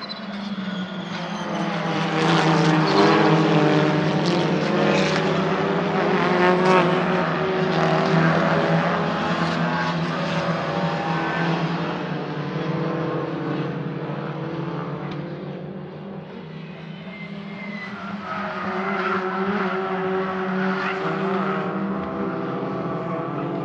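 Racing cars passing on track under power, several engine notes at once: loud for the first half, fading, then a second group coming by near the end.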